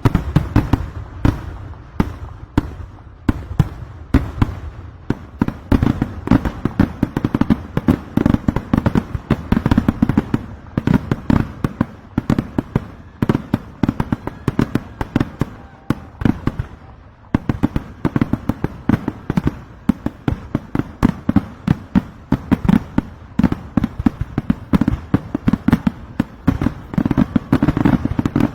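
Kerala temple fireworks (vedikkettu): a dense, rapid volley of firecracker bangs, many per second, with a short lull about seventeen seconds in before the barrage resumes.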